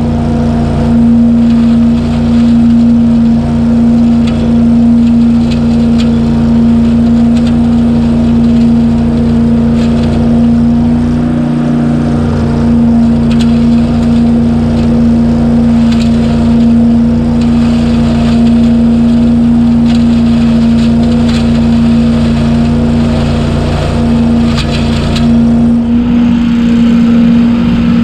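Truck-mounted debris loader's engine and vacuum fan running steadily at full speed while sucking up wet leaves, a loud constant hum. The lower part of the hum drops away about two seconds before the end.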